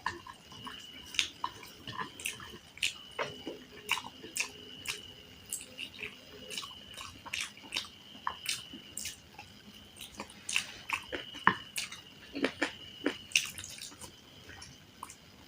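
Close-miked ASMR eating: wet chewing with sticky mouth clicks and smacks, several a second and irregular.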